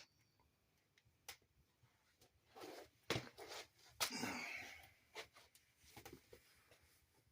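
Wood fire in a fireplace, faint scattered crackles and pops with a short hiss about four seconds in.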